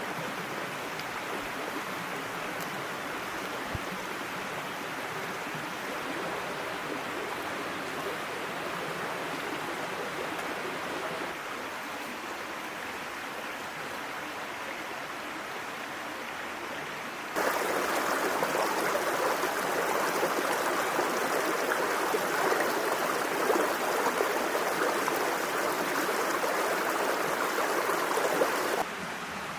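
Small mountain stream babbling steadily over rocks. About halfway through the flow abruptly becomes louder and brighter, then drops back just as suddenly near the end, as if heard from closer to the water.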